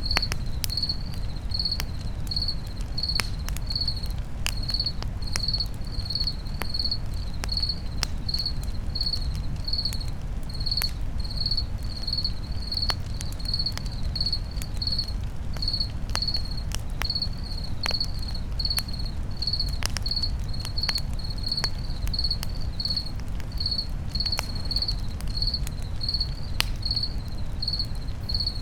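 Campfire crackling with scattered sharp pops over a steady low rumble, and a cricket chirping evenly about twice a second.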